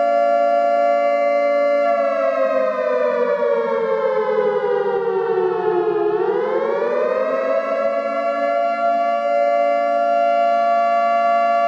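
Civil defence air-raid siren sounding a steady two-note wail. About two seconds in its pitch slowly falls, bottoms out about six seconds in, then climbs back to the steady tone within a couple of seconds.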